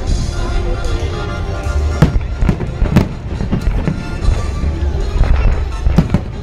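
Aerial fireworks bursting overhead: a run of sharp bangs, several a few tenths of a second to a second apart, over a continuous low rumble, with music playing.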